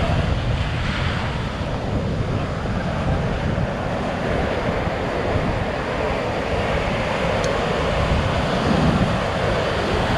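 Surf washing onto a sandy beach, a steady rush of waves, with wind buffeting the microphone.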